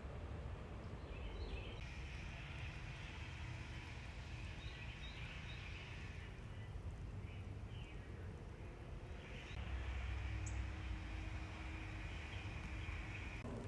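Outdoor background noise: a steady low rumble with a faint hum, and a few small bird chirps.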